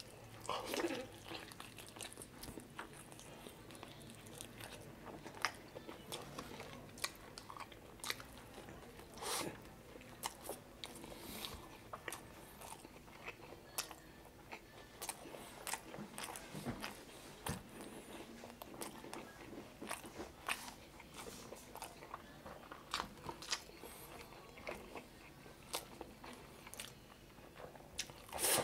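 A person biting and chewing chicken adobo and rice eaten by hand: a run of short, irregular mouth clicks and crunches.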